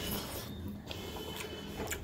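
Close-up chewing of a mouthful of rice and fish, with a few soft wet mouth clicks.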